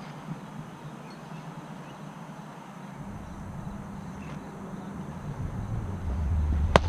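Outdoor background noise with a low rumble that comes in partway through and grows louder near the end, and one sharp crack just before the end.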